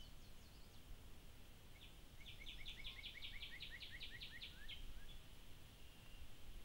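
A songbird singing once, about two seconds in: a run of about a dozen quick two-part notes, about five a second, lasting about three seconds, over faint steady outdoor background noise.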